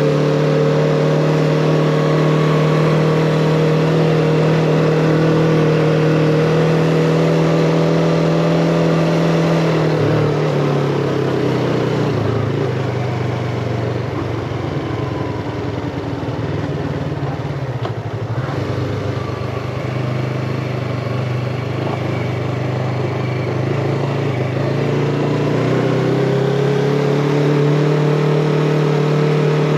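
Yamaha MT-25 parallel-twin engine running at a steady pitch under throttle. About ten seconds in, the note drops as the throttle eases off and stays lower and rougher for around a dozen seconds, then climbs back to a steady pitch near the end.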